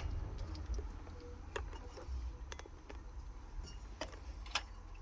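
Small metal parts and fittings clicking and clinking as they are handled: about half a dozen separate sharp clicks, with a steady low rumble underneath.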